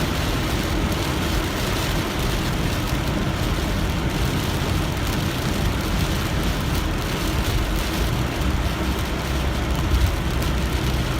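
Heavy rain and a car driving through wet, flooded streets, heard from inside the car: a steady, dense rush of rain and tyre noise over a low engine and road rumble.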